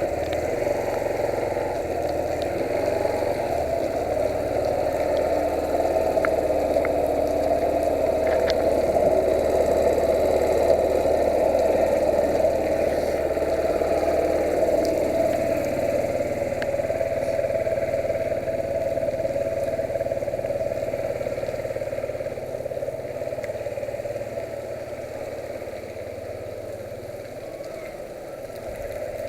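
Yamaha YBR125's single-cylinder four-stroke engine running steadily, its level falling off a little near the end.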